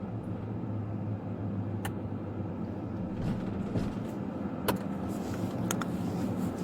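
Car engine running with a steady low hum, with a few sharp clicks.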